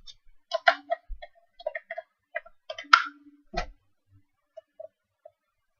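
Irregular clicks and taps of small plastic parts being handled, about fifteen in all, the loudest about three seconds in.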